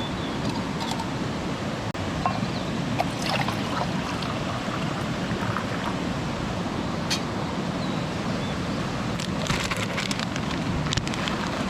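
Steady rush of a mountain stream flowing, with a few light clicks and taps over it, more of them near the end.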